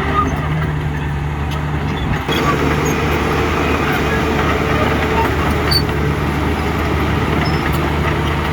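Heavy diesel engine of construction machinery running steadily at low revs, with an abrupt shift in the sound about two seconds in.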